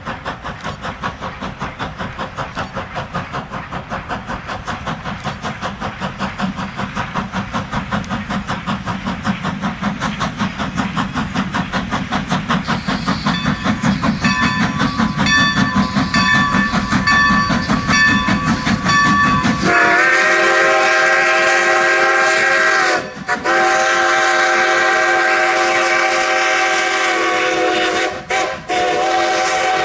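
Approaching train with a steady rhythmic beat that grows louder, joined by a ringing bell about halfway through. Then a loud, long whistle chord sounds, broken briefly twice.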